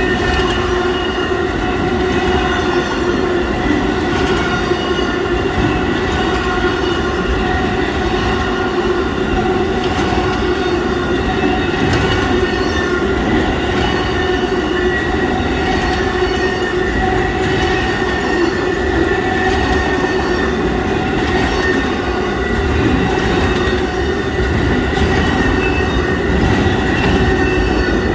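Amtrak Auto Train's long string of passenger cars and auto carriers rolling steadily past. The wheels squeal on the rails, making several held high pitches over a continuous rumble.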